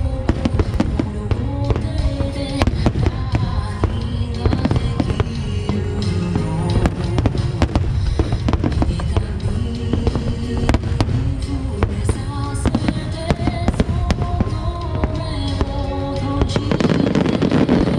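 Aerial fireworks barrage: many shells bursting in quick succession, a continuous run of booms and crackle with music playing underneath. Near the end the bursts thicken into a dense crackle as a wide spread of gold shells goes off at once.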